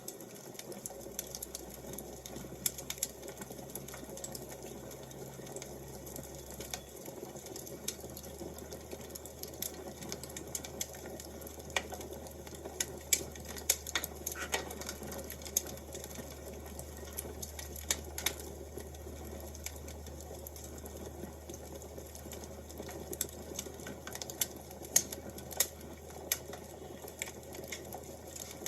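Wood fire crackling: irregular sharp pops and snaps, a few louder ones, over a low steady hiss.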